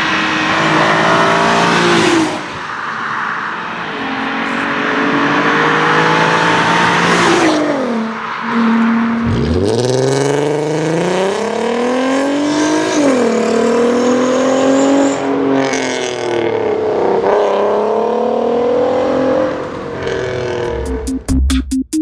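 Volkswagen performance car engines revving and accelerating, pitch climbing and falling through repeated surges. About nine seconds in, one pulls away from low revs and climbs steadily. Electronic music begins in the last second.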